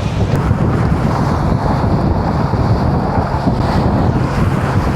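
Strong wind buffeting the microphone aboard a motorboat running across open sea, with the boat's engine and the rush of water beneath it, steady and loud.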